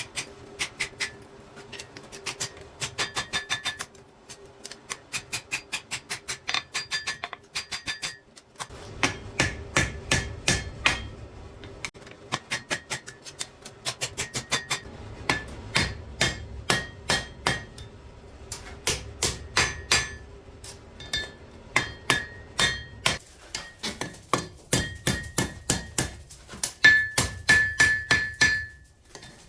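Forging hammer striking steel on an anvil in quick runs of blows, about three a second, each blow ringing brightly, with short pauses between runs. A faint steady hum sits under the first part.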